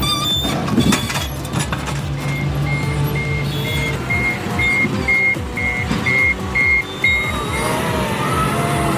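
Heavy machine's reversing alarm beeping about twice a second over a diesel engine running, with background music. A short clatter about a second in.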